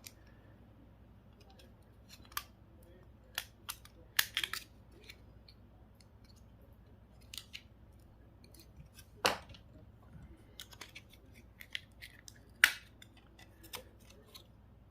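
Hand tools snipping and prying apart a small electronic device's plastic casing and circuit board: a string of short, sharp clicks and snaps at irregular intervals, one of them louder about two-thirds of the way in.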